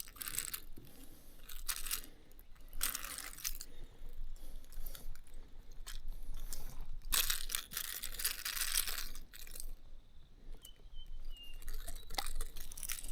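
Several short, noisy bursts of rattling and scraping, the longest lasting about two seconds, as a just-caught Murray cod is handled and unhooked from a diving lure.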